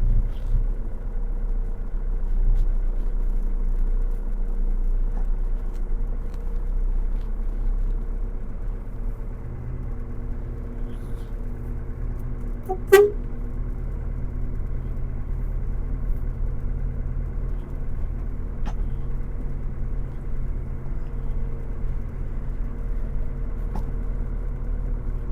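Steady engine and road rumble heard from inside a moving vehicle. About halfway through, one brief sharp sound stands out, such as a short toot or click.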